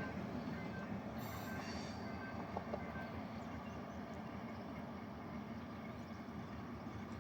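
Train running with a steady low rumble, hauled by TCDD DE 22000- and DE 33000-class diesel-electric locomotives coupled together. A brief high-pitched sound comes about a second in.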